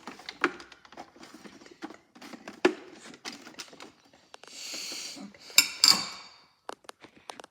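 Small hard plastic parts of a toy washing machine clicking and clattering as they are handled, with a short scraping rustle about four and a half seconds in and a few louder knocks near the end.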